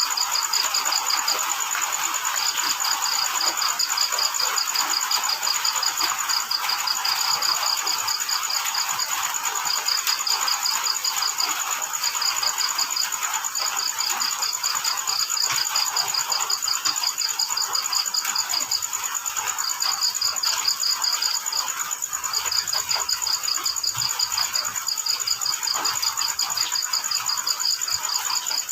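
Crickets chirping: one sings a continuous, very fast high-pitched trill, while another, slightly lower, chirps in pulsed runs of a second or two with short pauses between them. Underneath is a steady, even hiss.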